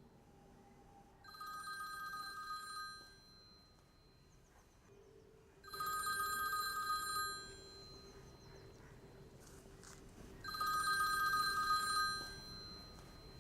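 A mobile phone ringing with an incoming call: an electronic ring of two steady tones, sounding three times, each about a second and a half long, with pauses of a few seconds between.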